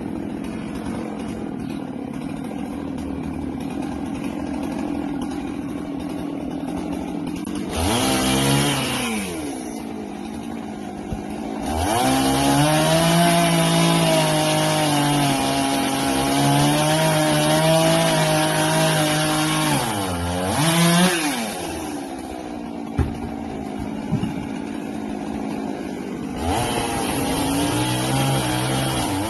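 Husqvarna 390XP two-stroke chainsaw idling, blipped once about 8 seconds in, then held at high revs with a wavering pitch for about nine seconds, as when cutting through wood. It drops back to idle and throttles up again near the end.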